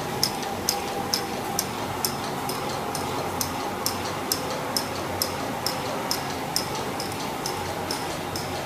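Large Stirling engine running steadily, with a sharp tick about twice a second at an even pace over a faint steady hum.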